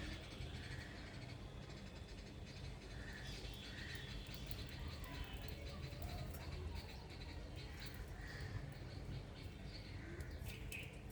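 Small birds chirping in short, separate calls every second or two, over a steady low background rumble.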